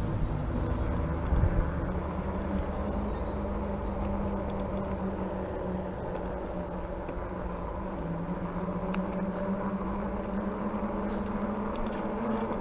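RadRover fat-tire e-bike riding along: a steady hum from its hub motor and fat tyres, dipping slightly in pitch about eight seconds in, over rushing wind and road noise.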